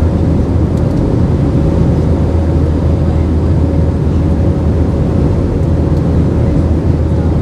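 Airbus A320-232 in flight, its IAE V2500 engines and airflow making a steady, loud low rumble heard inside the cabin, with a faint steady hum above it.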